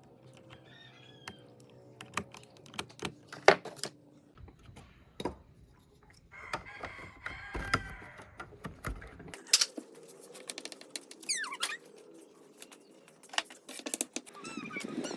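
Irregular light clicks and taps, scattered through the whole stretch, with a denser, busier patch about halfway through.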